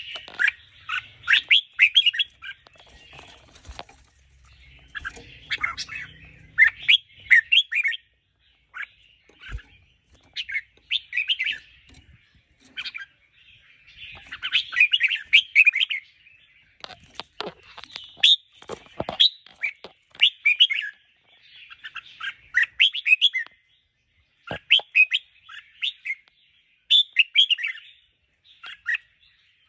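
Red-whiskered bulbul singing: bursts of quick, warbling song phrases every second or two, with a couple of faint knocks in between.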